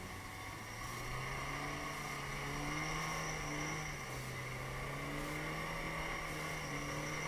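Lada Niva's four-cylinder engine running at raised revs; its pitch climbs about a second in and then holds fairly steady with small rises and falls.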